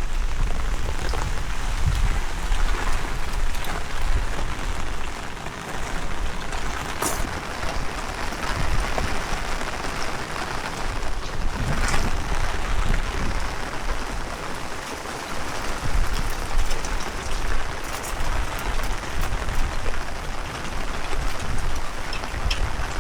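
Heavy rain falling steadily, with gusts of wind buffeting the microphone in a low rumble. A couple of sharp taps stand out, one about a third of the way in and another about halfway.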